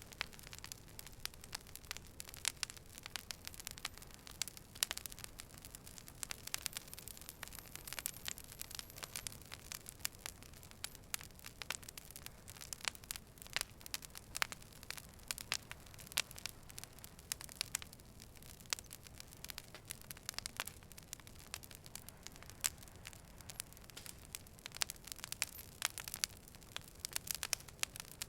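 Fire burning and crackling: many irregular sharp pops and snaps over a steady soft hiss.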